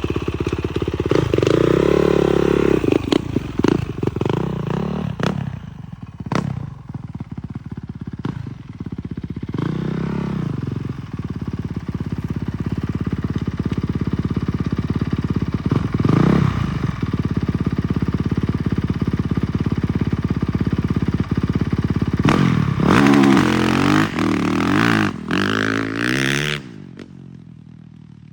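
Dirt bike engines revving and accelerating hard in several surges of rising pitch, easing off in between, as the bikes launch and run. The sound falls away sharply near the end.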